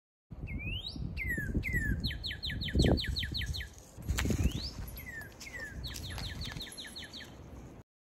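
A songbird singing phrases of slurred whistled notes, each followed by a quick run of falling notes, twice, over a low rumble on the microphone.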